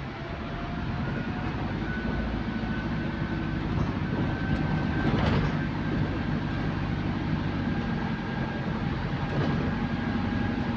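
Electric bus's traction motor whining as it accelerates, the thin whine slowly rising in pitch and then holding steady, over a heavy rumble of tyres and road.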